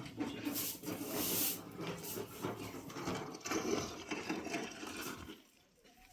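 Broom sweeping the ground in quick, irregular scratchy strokes that stop about five seconds in.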